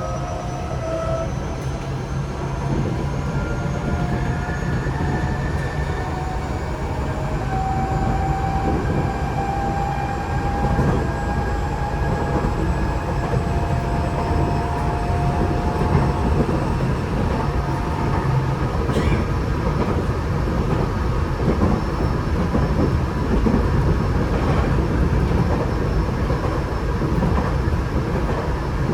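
Tokyo Metro 8000 series train's Mitsubishi IGBT-VVVF inverter and traction motors whining, the tones slowly rising in pitch as the train accelerates, over steady wheel and running rumble heard from inside the car. The whine fades out about two-thirds of the way through while the running noise carries on.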